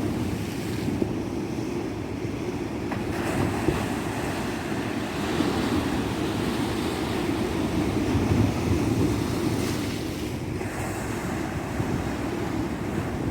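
Ocean surf washing onto a beach, a steady rush of breaking waves that swells and eases slowly, with wind rumbling on the microphone.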